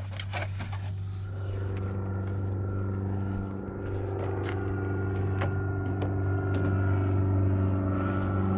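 Engine running at a steady speed: a low, even hum with a faint high whine joining about a second in, the level rising slowly, and a few light clicks over it.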